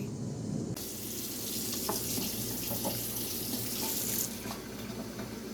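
Water splashing onto a tree, starting abruptly just under a second in, strongest for about three seconds, then going on more softly.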